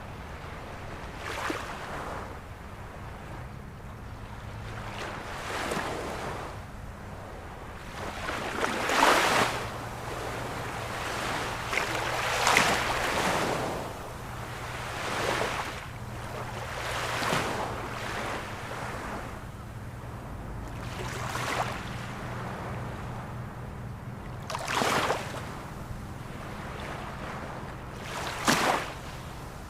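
Ocean waves breaking and washing ashore in repeated surges every few seconds, the loudest about nine and twelve seconds in.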